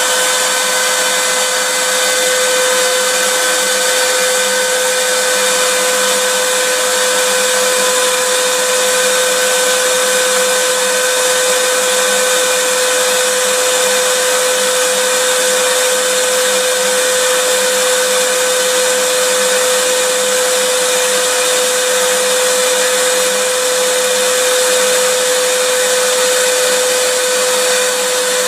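Vacuum cleaner motor running steadily: an unchanging whine with a strong, steady pitch over a constant hiss.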